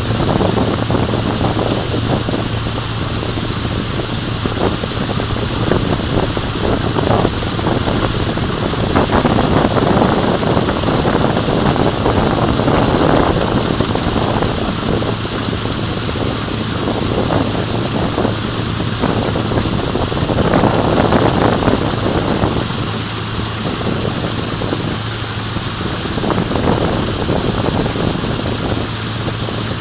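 Wind buffeting the microphone in uneven gusts over a steady low hum.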